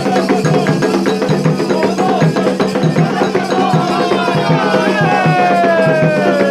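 Candomblé ceremonial music for Xangô: drums and other percussion keeping a fast, steady rhythm while voices sing a chant over it, the sung lines gliding downward in pitch.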